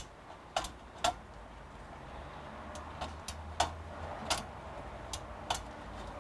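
Irregular sharp clicks and light taps, about nine spread over six seconds, from small hardware being handled and fitted during a CPU cooler install.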